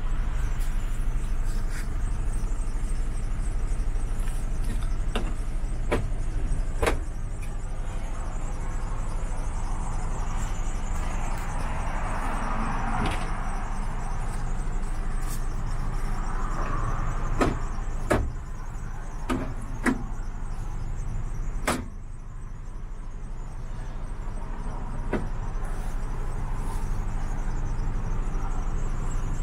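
Mercedes-Benz Actros 2545 tractor unit's diesel engine idling steadily, with scattered sharp clicks and knocks over it.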